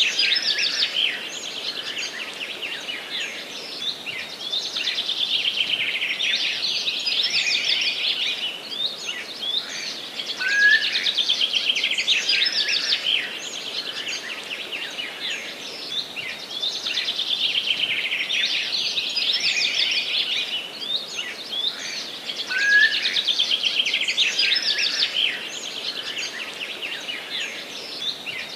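Songbirds singing in a forest: an almost unbroken chorus of rapid, chattering trills. The loudest phrases come near the start, about ten seconds in and again about twenty-three seconds in, each opening with a short rising note.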